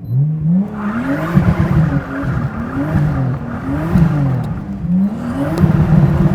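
Nissan Skyline R34's 2.5-litre RB25 straight-six engine revving: the revs climb, rise and fall several times in quick succession, then hold steady near the end.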